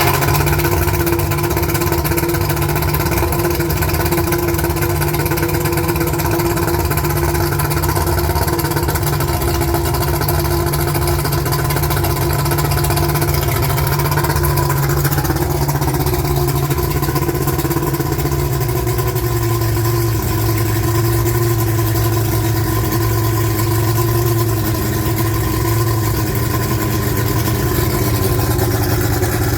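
1992 Mercury 200 XRi 2.5-litre two-stroke V6 outboard with EFI running steadily, its speed easing down somewhat about halfway through and then holding.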